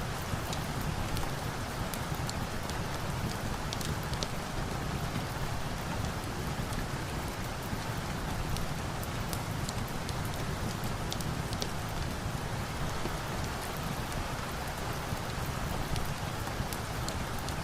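Steady rainfall with scattered small sharp crackles from a log fire.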